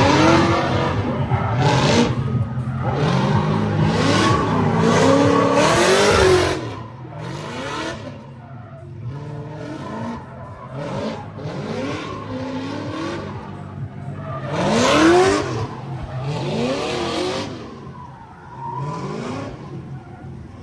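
Drift cars running hard: engines revving up and down again and again while the tyres squeal and skid. Loudest for about the first six seconds, then quieter, with another loud pass about fifteen seconds in.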